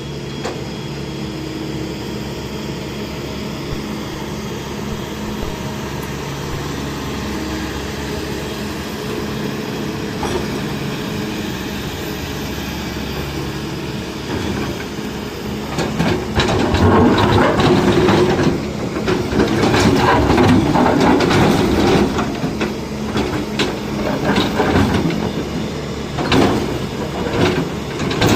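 Kobelco 210 excavator's diesel engine running steadily. About sixteen seconds in it gets louder, with irregular metal clattering and knocking as the machine works.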